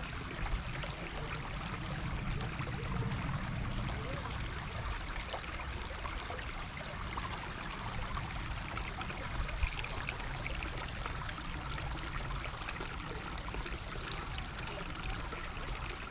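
Creek water flowing with a steady trickle.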